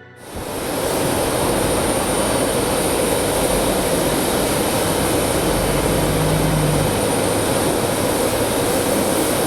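Regional jet's turbofan engines running, a steady rushing noise with a thin high whine that starts abruptly just after the beginning.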